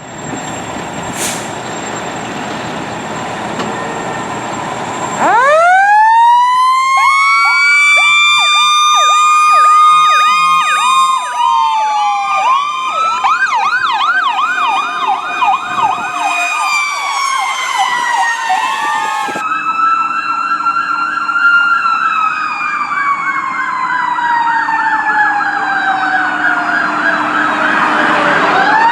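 Fire apparatus responding with sirens. After a few seconds of road rumble, a siren winds up in pitch and holds while a second siren yelps rapidly over it. About two-thirds of the way through, the sound cuts to another siren slowly falling in pitch under fast yelping, and a siren winds up again near the end.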